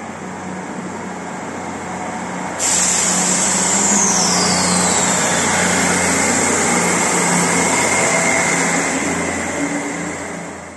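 Diesel multiple-unit passenger train passing through the station without stopping: a low engine hum, then a sudden loud rush of wheels and air as the coaches come alongside, with a high whine that falls in pitch, fading near the end as the train clears the platform.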